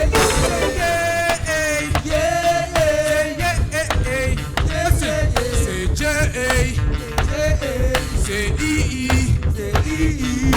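Live reggae band playing, with a steady beat, heavy bass and a melodic line over it.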